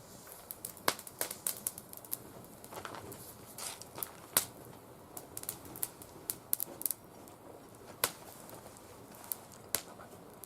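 Oak twigs burning in a wire-mesh fire pit, crackling with irregular sharp pops. The oak was cut only a few months before and is not fully dried.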